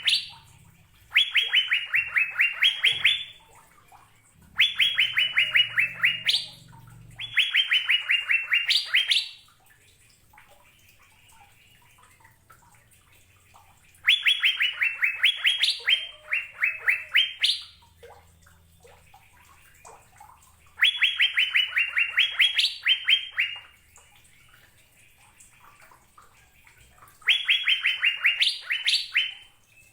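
Asian fairy-bluebird (cucak biru) singing: six phrases of quick, evenly repeated clear notes, each lasting about two seconds and ending in a few higher notes, with pauses of a few seconds between them.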